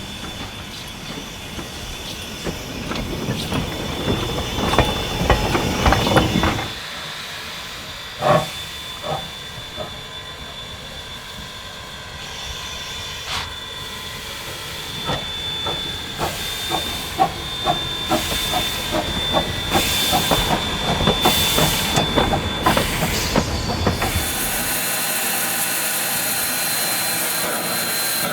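NZR Ww class steam tank locomotive and its train running by: a rumble that builds and cuts off suddenly, then a run of sharp clicks of wheels over the rail joints. Near the end comes a steady loud hiss of steam.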